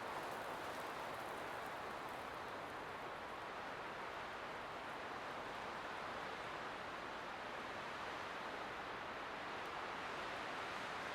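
Light wind blowing steadily, a soft, even whoosh with no gusts or breaks.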